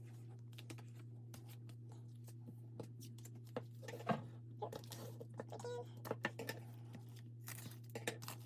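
Paper and card album packaging being handled: irregular rustles, crinkles and small scrapes as inserts are slid in and out, over a steady low hum.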